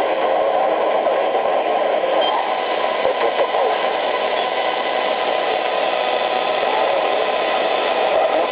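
Shortwave static from a Grundig Yachtboy 80 portable receiver's speaker: a steady hiss of band noise with faint wavering tones running through it, and no clear station audible.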